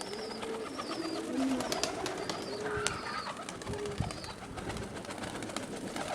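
Domestic pigeons cooing close by, several low, gliding coos overlapping, with short high chirps repeating about twice a second and scattered light clicks.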